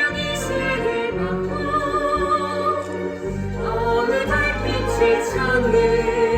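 Musical theatre song: voices singing held notes over an orchestral backing with a moving bass line.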